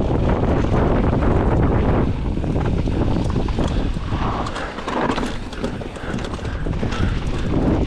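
Commencal Meta AM 29 mountain bike descending a trail: wind rushing over the microphone, tyres rumbling over dirt and rock, and the bike rattling with many sharp clicks and knocks. The wind rush eases after about two seconds, leaving the knocks and tyre noise more exposed.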